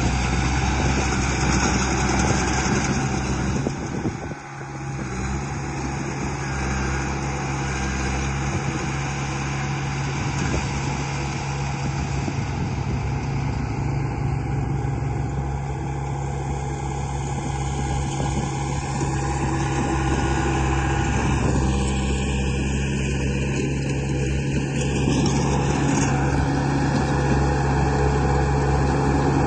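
Radio-controlled construction vehicle running with a steady engine-like hum, briefly dropping off about four seconds in.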